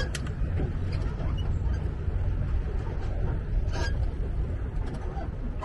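Pedal boat's pedal-drive mechanism squeaking a few times over a steady low rumble, the dry creak that the riders call a 'Halloween sound'.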